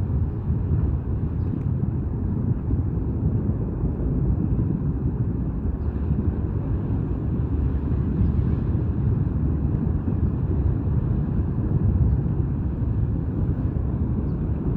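Steady low rumble of a container ship manoeuvring as it turns to dock, mixed with wind buffeting the microphone.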